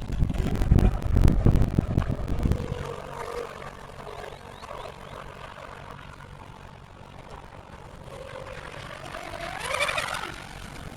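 Electric R/C outrigger racing boat with a Leopard 3650 brushless motor running at speed, a steady high whine that fades away in the middle and comes back louder and rising in pitch near the end. Low wind rumble on the microphone in the first couple of seconds.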